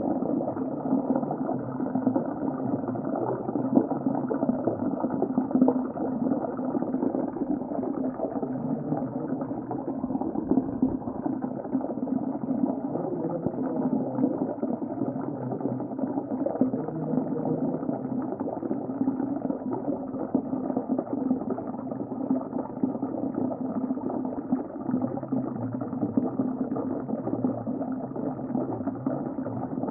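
Underwater ambience: a steady, muffled rush of water with continuous bubbling and gurgling, dull and low with nothing above about 2 kHz.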